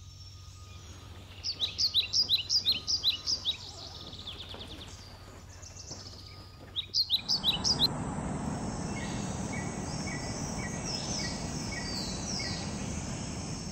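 Birds chirping in quick series of short, high, falling notes, in two bursts a few seconds apart. About seven seconds in, a steady rushing noise starts, and fainter chirps continue over it.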